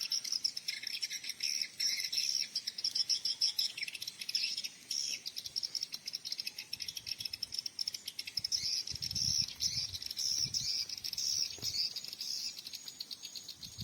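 Swiftlets twittering in a dense, continuous high-pitched chorus of rapid chirps.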